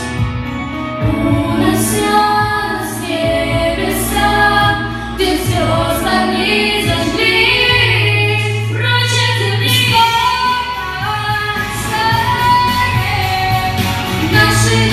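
Female voices singing a song over an instrumental backing track with a steady bass and a beat.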